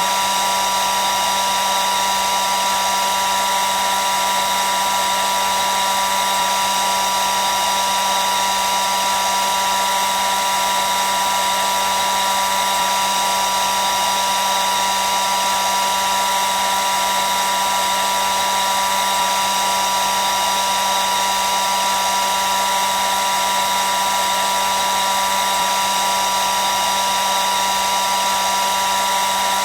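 Hair dryer running continuously at a constant speed: a steady whine from its motor and fan over the rush of blown air, with no change in pitch or level.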